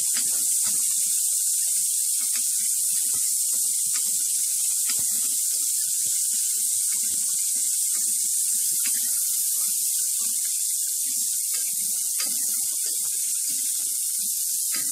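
Diced potatoes and onion sizzling in hot oil in a pan, a steady hiss, while a silicone spatula stirs them with short scrapes and taps against the pan.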